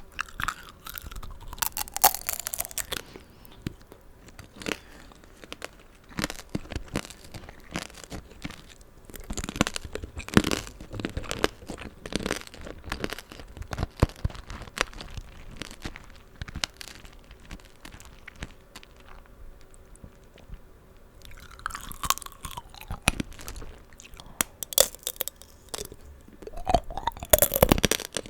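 Close-miked crunching and chewing of tanghulu: the hard candied sugar shell on strawberries and green grapes cracking between the teeth over and over, with wet chewing of the juicy fruit.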